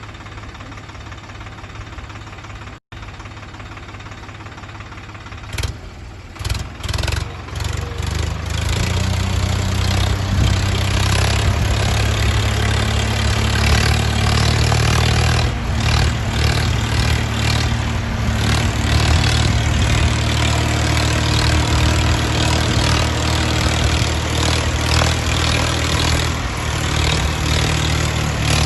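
Mahindra tractor's diesel engine starting: a few uneven bursts about six seconds in, then it catches and runs steadily with a deep hum.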